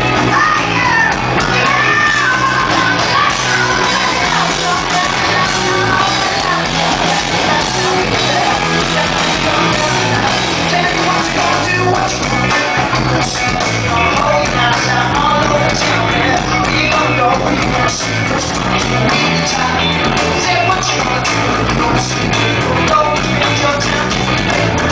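Rock band playing live, loud and dense, with a singer's voice over the band that is clearest in the first few seconds.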